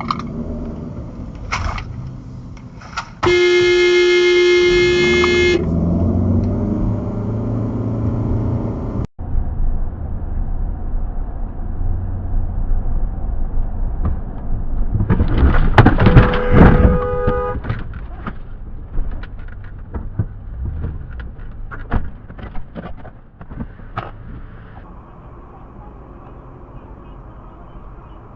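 Car interior road and engine rumble, with a car horn held for about two seconds a few seconds in. Later, a second, shorter horn blast comes amid a loud burst of knocks and rattles, then scattered clicks over a quieter steady rumble.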